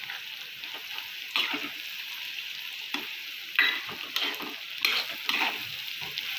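Diced potatoes and green chillies sizzling in hot oil in a metal kadhai, stirred with a metal spatula that scrapes across the pan in several strokes, the loudest about three and a half seconds in.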